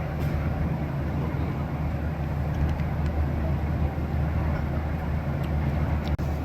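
Jet airliner cabin noise: a steady low engine and airflow drone, which cuts out for an instant near the end.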